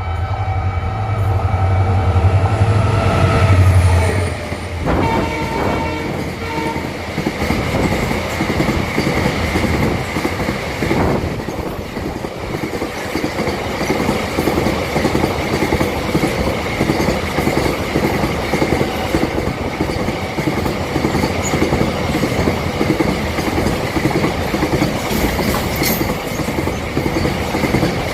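Indian Railways goods train passing at speed: a horn sounds with a loud low hum for about the first four seconds, then the wagons' wheels clatter steadily past, with a faint high squeal running under the clatter.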